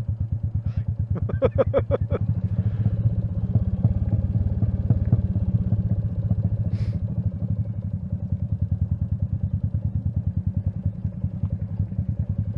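Royal Enfield Meteor 350's single-cylinder engine running with a steady, even thudding pulse while riding. A single sharp click comes about seven seconds in.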